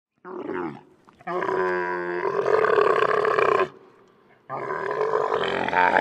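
Dromedary camel calling: a short call, then two long calls of two to three seconds each.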